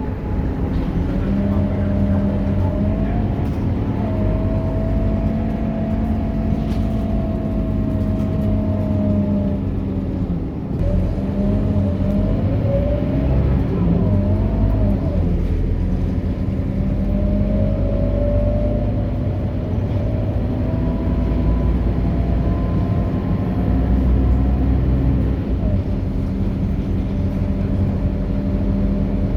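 Scania K230UB city bus running under way: a steady engine drone with a whining tone that rises and falls several times as it pulls away and changes speed, and a brief lull about ten seconds in.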